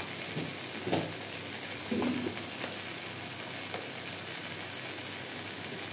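Onion-tomato masala frying in a steel kadhai, a steady sizzle.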